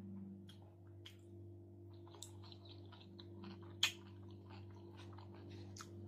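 Close-up chewing of a leafy salad of salmon and chuka seaweed: soft wet mouth clicks and small crunches, with one sharp click a little past the middle, over a faint steady low hum.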